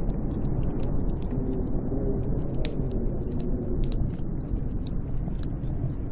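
Snowstorm wind as a steady low rumble, with frequent irregular sharp crackles and ticks over it.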